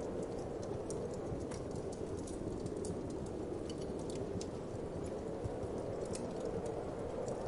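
Wood fire crackling with irregular sharp pops and snaps, over a steady low whoosh of wind.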